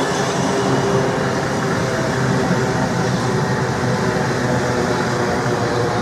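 South Western Railway electric multiple-unit passenger train passing through a station at speed without stopping: a steady rush of wheels on rail with a faint steady hum.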